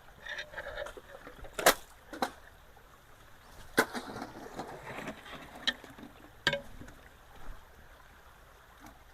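Scattered sharp knocks and clatters, about five spread over several seconds, with a brief rustle in the middle, over a faint steady background of running water.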